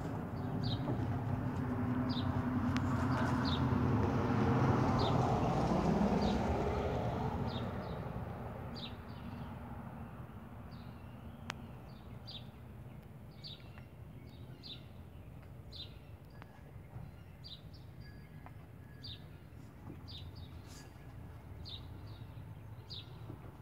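A bird chirping over and over, one short high chirp about once a second. Over the first eight seconds a low rumble swells up and fades away.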